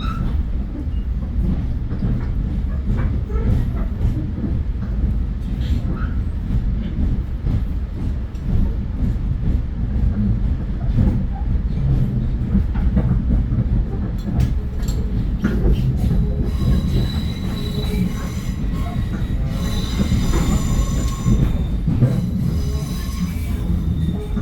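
Metro-North commuter train running, a steady low rumble with scattered clicks from the wheels over the track. From about 17 s in, wheels squeal high and ringing for several seconds.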